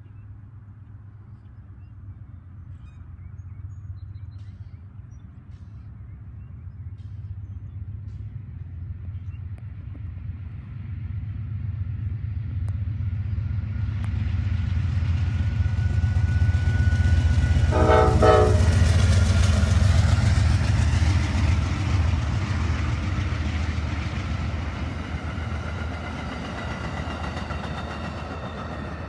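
Amtrak passenger train approaching and passing: a low rumble builds steadily, peaks about two-thirds of the way through with a brief horn note, then eases off as the cars roll by.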